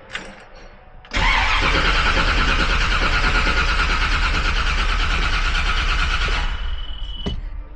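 1956 Chevrolet Bel Air's engine being turned over by its high-torque starter: a strong, steady crank that starts suddenly about a second in, runs for about five seconds, then stops.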